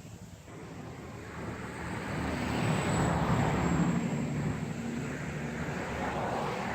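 Engine noise of a passing vehicle, growing louder over the first few seconds and then slowly easing off.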